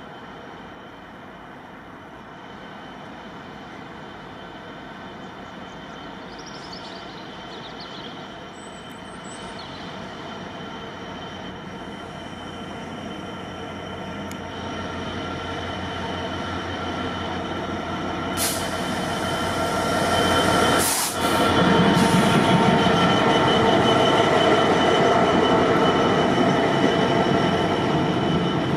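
A train approaching along the track, its rumble growing steadily louder over about twenty seconds until it is close and loud, with steady high-pitched ringing tones over the rumble.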